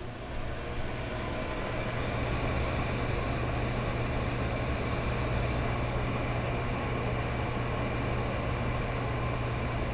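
Microwave oven running with a steady hum, building up over the first second or two, then holding level.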